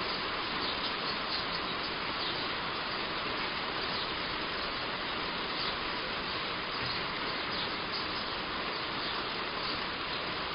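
Heavy rain falling steadily on a roof, an even hiss, with faint short high chirps from birds here and there.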